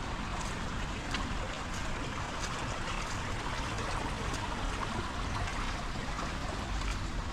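Heavy rain falling steadily, with scattered sharp drip-like taps through the constant hiss.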